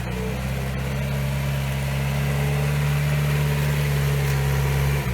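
Off-road 4x4's engine pulling hard at steady high revs, after climbing in pitch just before, then the revs drop off abruptly near the end.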